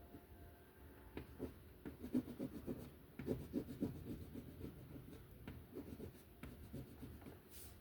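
Colouring on paper by hand: quick, irregular back-and-forth strokes rubbing across the page.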